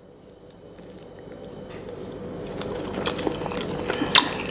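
Close-up chewing of a mouthful of shredded chicken, rice and beans, growing louder, with a few short clicks, the sharpest about four seconds in.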